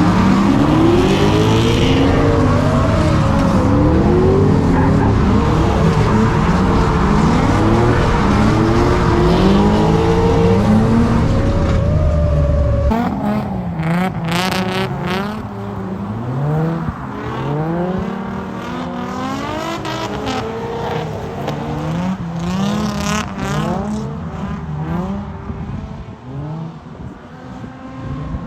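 Drift cars' engines revving up and down over and over as they slide through a run, with some tyre noise. About halfway through, the sound changes abruptly to a thinner, quieter mix of several engines rising and falling.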